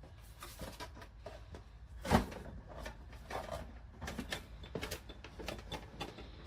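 Irregular plastic clicks and knocks from handling the mini fridge, its shelf and a water bottle, with one louder knock about two seconds in.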